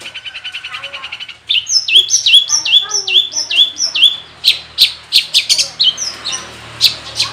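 Long-tailed shrike (cendet) singing a song full of mimicked phrases. It opens with a fast even trill, then gives a run of about six whistled notes that each slide down in pitch, then a series of loud, sharp chips about three a second.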